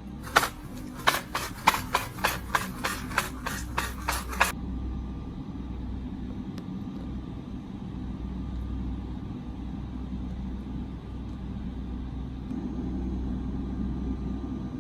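A quick run of about a dozen sharp taps or clicks, roughly three a second, stopping after about four seconds, over a steady low rumble.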